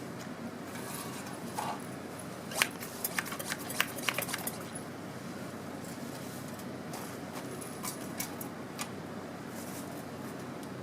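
Wood campfire crackling, with clusters of sharp pops and snaps over a steady hiss.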